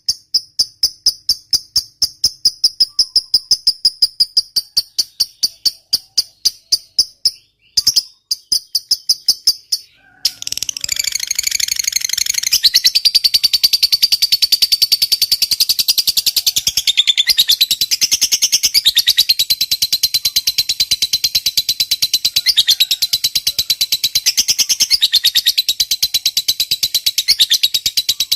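A fast, even string of high chirps, about five a second, breaks off after several seconds. About ten seconds in, a lovebird starts a long, rapid chattering trill, the 'ngekek panjang' prized in fighter lovebirds, and keeps it going without a break.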